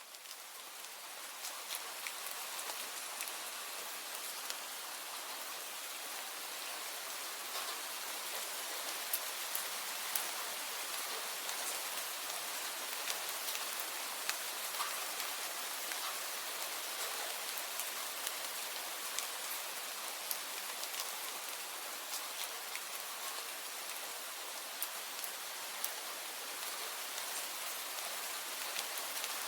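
Steady rain with many separate drops ticking through a continuous hiss, swelling up over the first second or two and then holding even.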